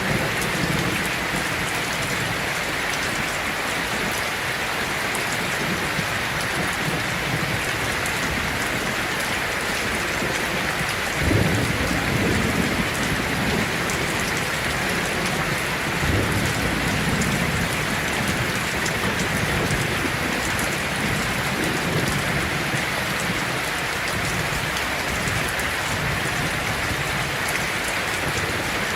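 Heavy rain falling steadily on a tin roof, with low rolls of thunder: the loudest comes about eleven seconds in and a smaller one about five seconds later.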